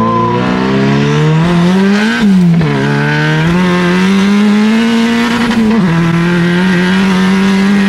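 Nissan 240SX's big-turbo KA24DET four-cylinder engine pulling under acceleration. Its pitch climbs, falls sharply about two and a half seconds in, climbs again, then drops near six seconds and holds steady, like upshifts between gears.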